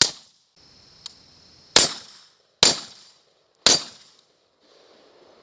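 Four pistol shots: one right at the start, then three more about a second apart from near two seconds in.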